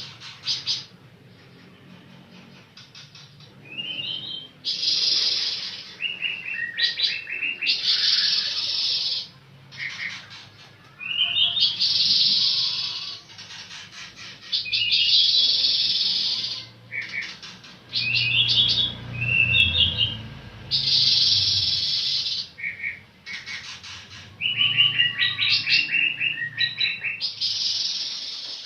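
A pancawarna songbird singing: repeated phrases of sharp chirps and fast trills, each lasting one to three seconds, with short pauses between them.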